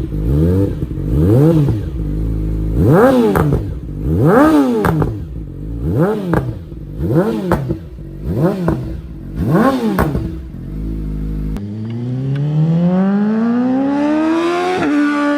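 Yamaha R6 inline-four through an Akrapovic full exhaust, revved hard about eight times in a row, each rev climbing and dropping back within about a second. About two-thirds of the way in the sound changes to one long rising pull through a gear under acceleration, with an upshift near the end.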